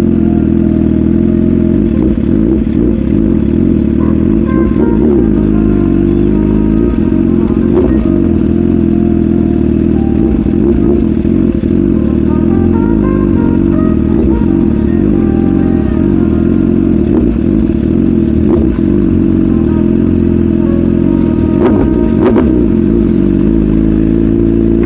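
BMW S1000RR's inline-four engine running at steady riding revs, the pitch shifting only slightly, with road and wind noise under it.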